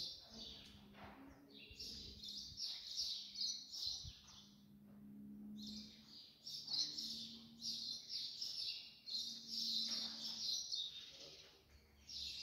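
Small birds chirping and twittering in rapid high runs, in two long bouts with a short pause between.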